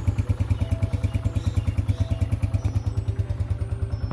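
Honda CG125's single-cylinder four-stroke engine idling steadily after a cold start, a fast even put-put of about ten beats a second.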